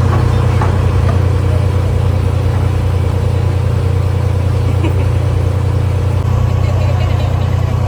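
Ferry boat's engine running steadily under way, a loud, even low hum.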